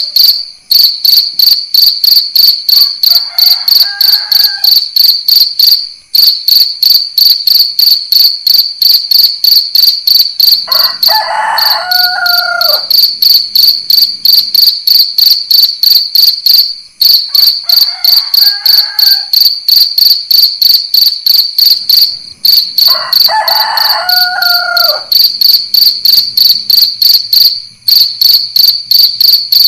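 Crickets chirping steadily in a loud, high trill, several pulses a second with short breaks every few seconds. A rooster crows four times over it, the second and fourth crows louder.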